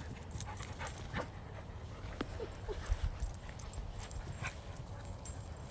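A dog giving two short, faint whimpers about halfway through, among scattered light clicks.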